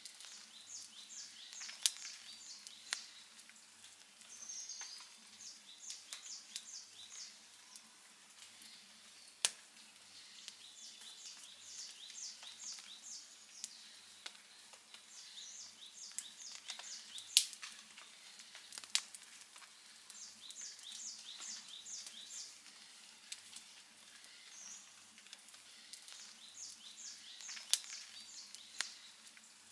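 Outdoor campfire crackling softly, with scattered sharp pops, the loudest about two seconds in, near the middle and near the end. A bird sings a short phrase of quick high notes, repeated every few seconds.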